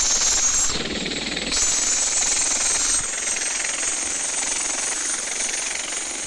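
Helicopter running steadily: a high turbine whine over a rapid, even rotor chop.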